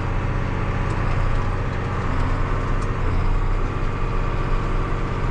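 Big John Deere farm tractor's diesel engine running steadily, a low even drone.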